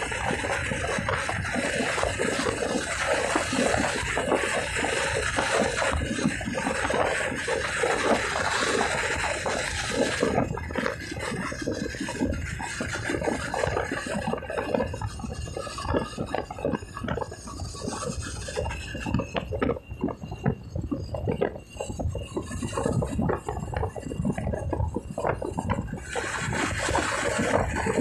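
Wind rushing and buffeting over the microphone of a motorcycle on the move, a rough, fluttering hiss that thins out from about a third of the way in and picks up again near the end.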